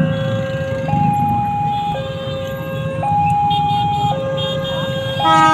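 Two-tone warning siren alternating evenly between a low and a high note, each held about a second, over a low rumble.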